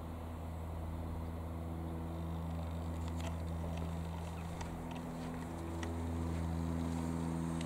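Piper PA-28-180 Cherokee's four-cylinder piston engine and propeller droning steadily as the light aircraft flies at a distance, swelling slightly toward the end, with a few faint clicks.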